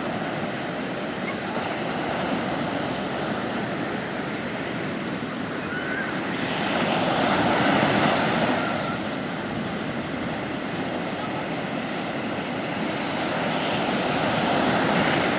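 Sea waves washing onto a beach: a steady rush of surf that swells louder twice, once about halfway and again near the end, as waves break.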